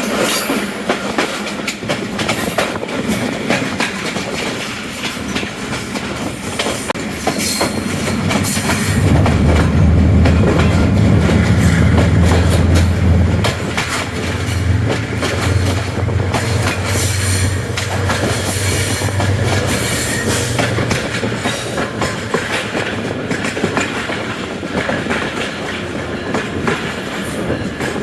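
Passenger train running at speed, its wheels clattering over the rail joints in a steady stream of clicks over rolling noise. A deeper rumble swells from about nine seconds in and eases off after about twenty.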